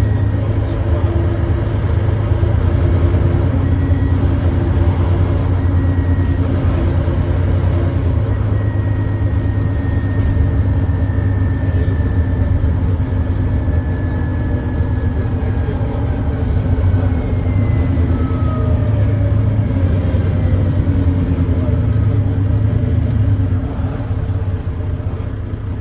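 Volvo B9TL double-decker bus's Volvo D9B 9.3-litre diesel engine running under way, a heavy low rumble with the thrash of an exhaust leak. A faint whine slowly falls in pitch midway, and the engine note eases off near the end.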